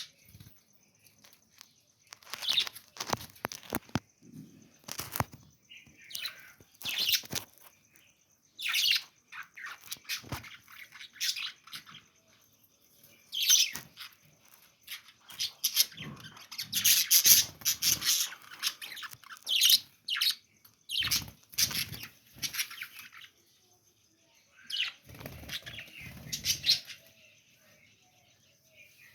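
Budgerigars chirping and fluttering their wings in irregular bursts, with short quiet gaps between.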